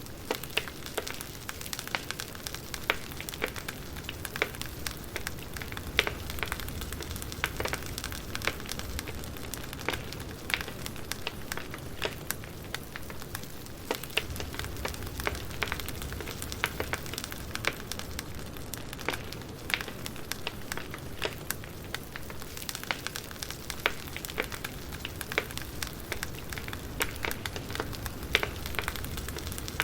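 Wood fire burning, with irregular sharp crackles and pops from the logs over a steady low rush of flame.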